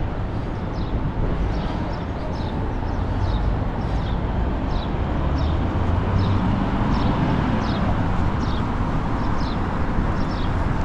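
Street traffic rumbling steadily, with short high chirps about once a second.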